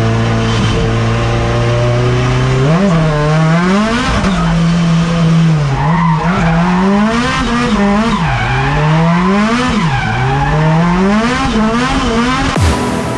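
Drift car engine holding a steady note, then revving up and down repeatedly as the throttle is worked through a slide, with tyres screeching.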